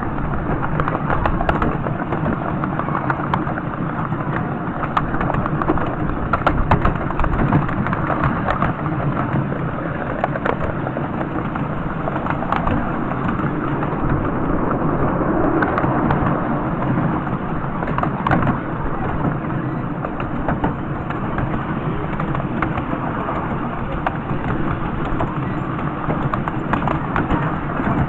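A miniature railway train running: a steady rumbling noise with frequent irregular clicks and knocks, typical of wheels on track.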